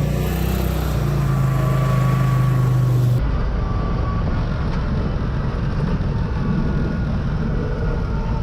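CFMOTO ZFORCE 800 EX side-by-side engine running at a steady speed on a trail. About three seconds in, the sound cuts to a rougher, noisier rumble in which the engine's steady tone is no longer clear.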